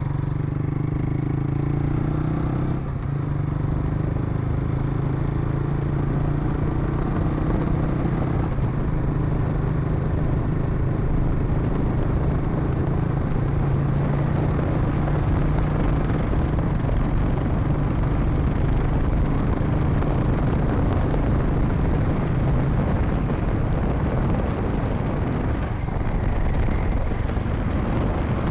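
Motorcycle engine running at a steady pitch while riding, under constant wind and road rush. The engine tone fades about three-quarters of the way in, leaving mostly the rush.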